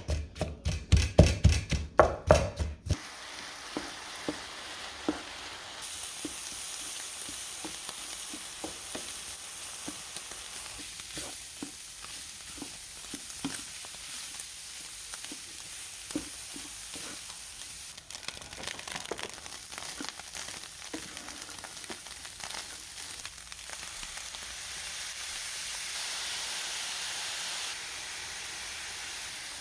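Food sizzling as it fries in a hot pan, with a utensil stirring and clicking against the pan now and then. The sizzle steps up about six seconds in and again briefly near the end.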